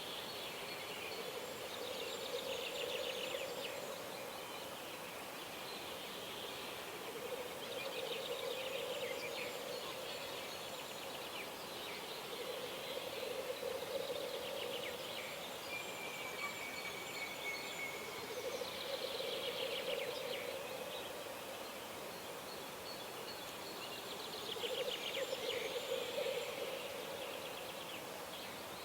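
Birds singing at a wilderness pond, with trilling song phrases repeating every few seconds and one short whistle about two thirds through. A lower sound recurs about every five or six seconds, over a steady background hiss.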